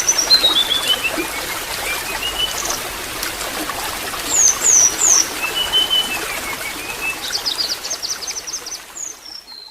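Water trickling steadily, with a songbird whistling over it: runs of clear notes falling step by step in pitch, repeated, and a quick rattle of high chirps about eight seconds in. The sound fades out at the very end.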